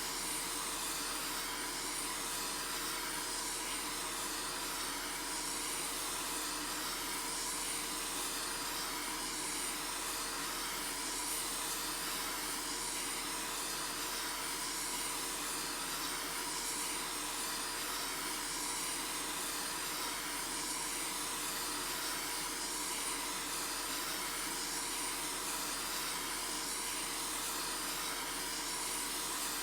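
Steady, unchanging hiss with faint steady hums underneath.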